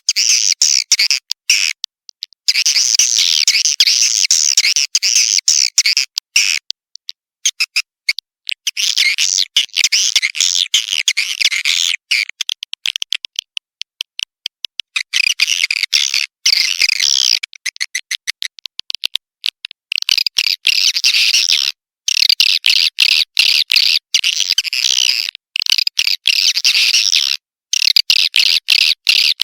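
Swiftlets twittering in dense, rapid high chirps, in bouts of a few seconds broken by sudden silent gaps: a swiftlet calling (lure) track of the kind played to draw swiftlets to a nest house.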